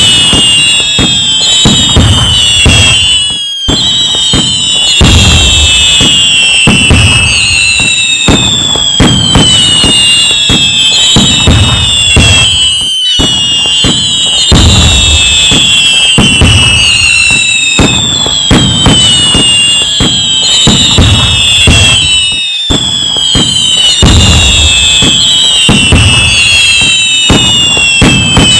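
Loud fireworks: dense, continuous bangs and crackling with low thumps, and many overlapping whistles falling in pitch. A brief drop about every nine and a half seconds, after which the same stretch seems to repeat.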